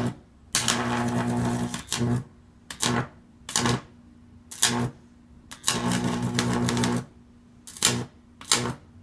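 High-voltage arcs from a microwave oven transformer's roughly 2,000-volt output, crackling and buzzing with a low mains hum. There are several short snaps and two longer arcs of about a second and a half each, one near the start and one past the middle.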